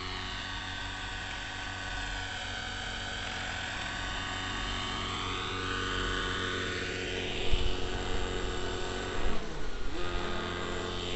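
Neo Caliber 50 RC helicopter's two-stroke nitro engine and rotors running steadily at flying speed. Near the end the pitch dips briefly and comes back up, with some loud bumps around it.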